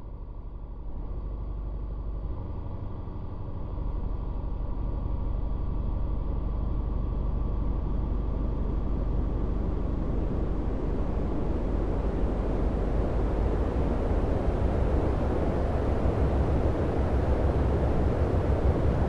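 Panasonic inverter air conditioner running with a steady whirring rush that grows gradually louder over the first several seconds, with faint steady tones in it early on.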